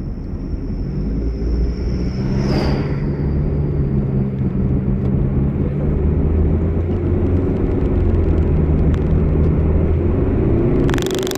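Car on the move: steady engine hum and road rumble, growing louder over the first few seconds, with a brief whoosh about two and a half seconds in. The sound changes abruptly near the end to a hiss.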